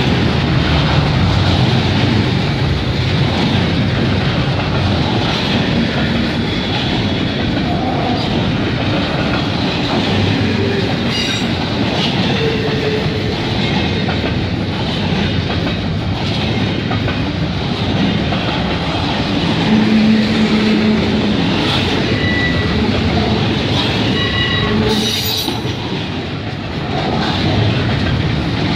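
Double-stack container well cars of a CN intermodal freight train rolling past close by: a loud, steady rumble and rattle of steel wheels on rail, with a few short wheel squeals in the second half.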